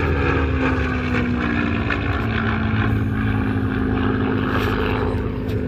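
Four-engined B-17 Flying Fortress, its Wright Cyclone radial engines droning steadily in flight. The drone slowly falls in pitch as the bomber passes.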